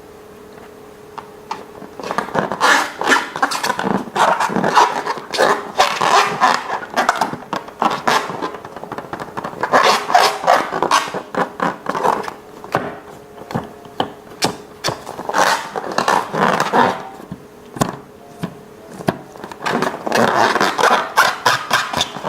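Slime and balloons being worked by hand: sticky, crackly squishing noise in four bursts of a few seconds each, dense with small clicks and pops.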